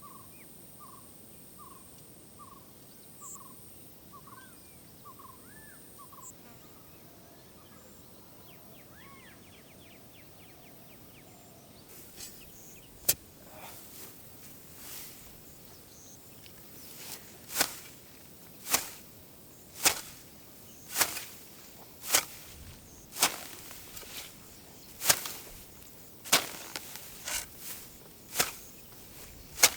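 A bird calls with a short repeated note, about two a second, then a few rising chirps. From about twelve seconds in, sharp strikes start and settle to roughly one a second: a hand tool chopping into the ground to dig a planting hole.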